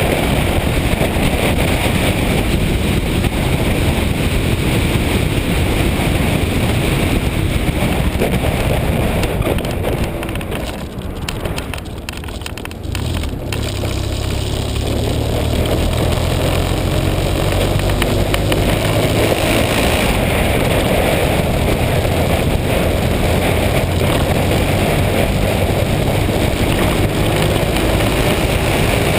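Motorcycle riding with heavy wind rush on the microphone over the engine. The noise drops for a few seconds near the middle, then the engine note comes through steadily again, with a few rising pitches as it picks up speed.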